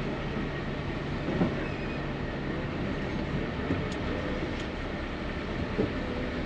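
Rigid truck's diesel engine running, heard from inside the cab as a steady rumble, with a few short knocks and rattles.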